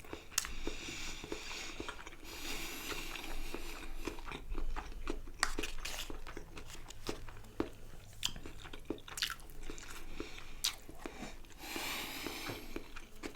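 A person chewing and biting a mouthful of food close to the microphone, with many short wet mouth clicks.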